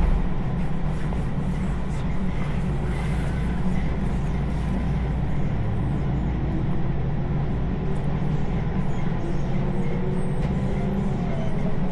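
Train running along the line: a steady low rumble and running noise, with a faint whine drifting up in pitch over the last few seconds.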